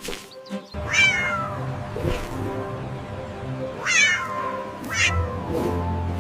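A cat meowing several times, each meow falling in pitch, about a second in and again near four and five seconds, over background music.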